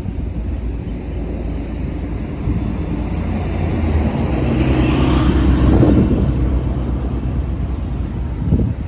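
Low engine rumble of a motor vehicle that swells as it passes, peaking about five to six seconds in, then eases.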